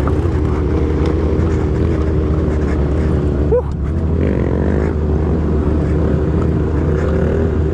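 Motorcycle engine running at a fairly steady speed, with no big revs.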